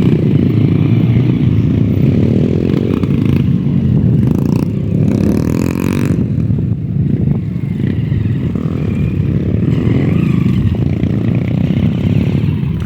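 Trail motorcycle engines running loudly close by, one revving up and down as it goes past. A brief hiss comes about five seconds in.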